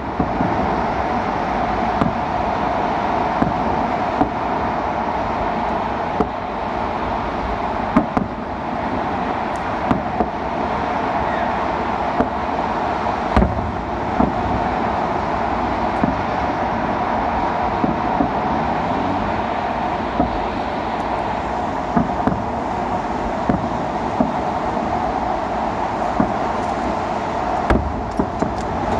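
Steady city traffic noise, with sharp distant bangs of a fireworks salute every few seconds, some close together near the end.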